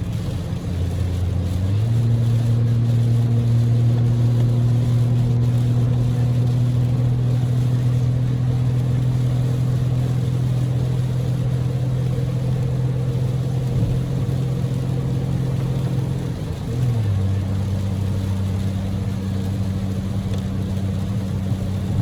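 Daihatsu Move's 660 cc three-cylinder EF-VE engine droning steadily at highway speed, heard inside the cabin over heavy rain and road noise. The engine note rises about two seconds in and drops back down near the end.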